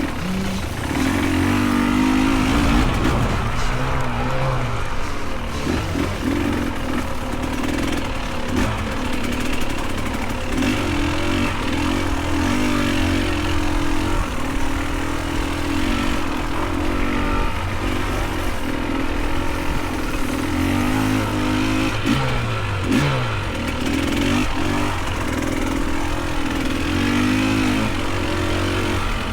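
Dirt bike engine running on a trail, its pitch rising and falling again and again as the throttle is opened and closed.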